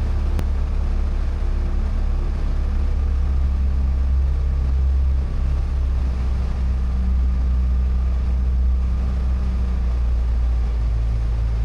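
Light single-engine airplane's piston engine and propeller droning steadily in the cabin on final approach, with small shifts in pitch about halfway through and again near the end.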